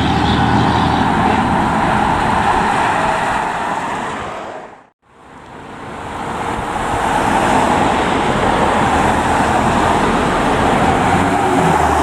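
Fire trucks driving past with loud engine and road noise. The sound fades out to silence about five seconds in, then fades back up on another passing truck.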